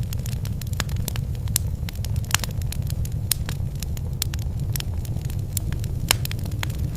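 Wood fire burning in a fireplace: a steady low rumble with irregular sharp crackles and pops, a few of them louder than the rest.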